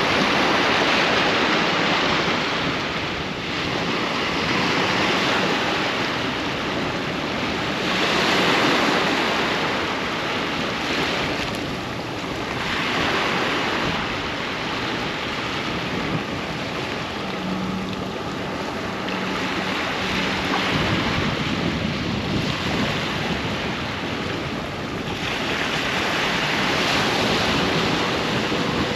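Sea waves breaking and washing up on a beach, rising and falling in swells every few seconds.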